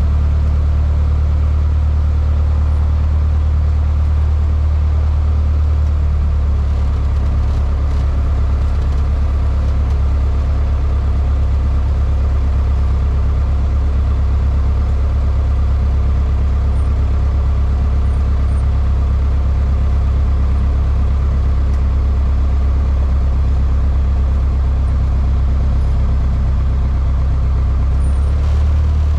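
Cessna 152's four-cylinder Lycoming engine and propeller running with a steady low drone that holds even throughout.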